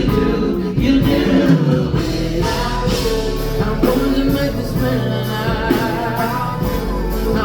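Live band playing a soul song with guitar, bass and drums, with sung vocals over it.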